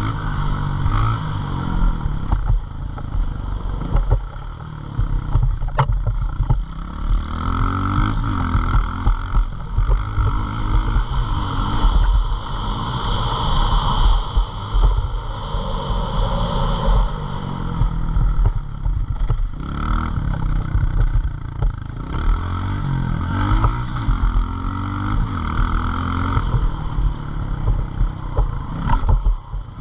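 Pit bike engine revving hard, its pitch climbing and dropping again and again as it accelerates and backs off.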